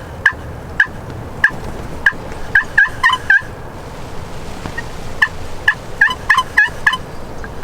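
Turkey clucks and short yelps: about a dozen sharp single notes and quick two-note clusters, bunched about three seconds in and again between five and seven seconds in, over the steady hiss of rain.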